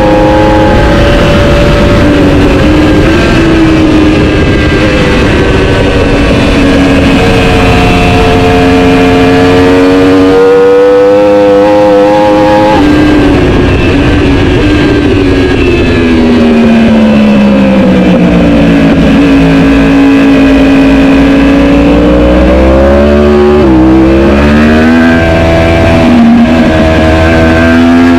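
Superbike engine at racing speed under a rush of wind noise. It pulls for about ten seconds with a slowly rising pitch, drops sharply, and falls steadily as the bike slows. It sits low for a few seconds, then revs up again through quick gear changes near the end.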